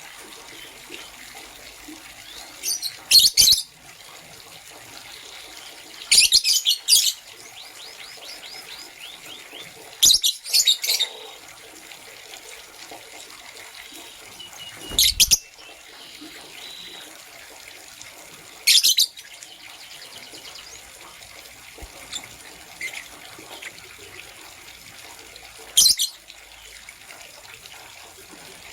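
Lovebirds chirping: short, shrill bursts of chirps every few seconds, over a steady faint hiss.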